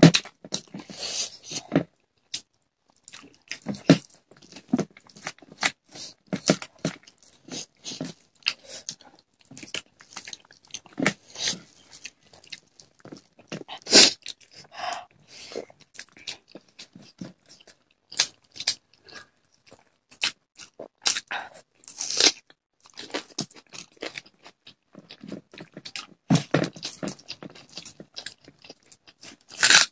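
Eating sounds of rice and curry eaten by hand: irregular chewing, with many sharp clicks and crackles.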